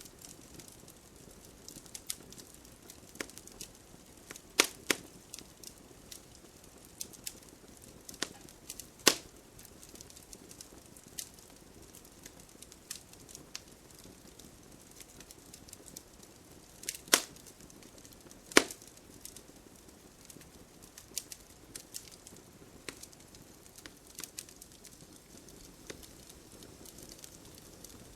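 Wood campfire crackling, with irregular sharp pops and snaps over a faint steady hiss of burning; a few loud pops stand out, a pair about 17 to 18.5 seconds in.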